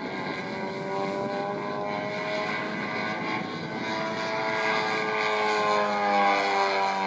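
3W 157 cc two-stroke petrol engine of a large radio-controlled Piper model airplane running in flight. Its propeller drone grows louder as it approaches, and its pitch slides down near the end as it passes.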